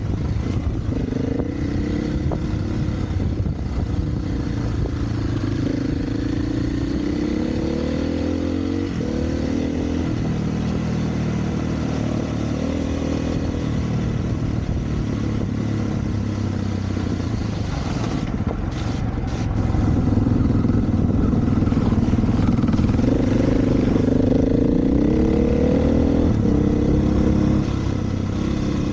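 Single-cylinder dirt bike engine under way, its pitch rising and falling over and over as the throttle is opened and closed through the gears. It runs louder from about two-thirds of the way in.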